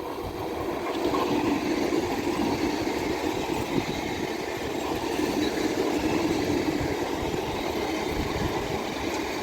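Indian Railways electric multiple-unit local train running past on the rails, its wheel and rail noise building over the first second and then holding steady and loud.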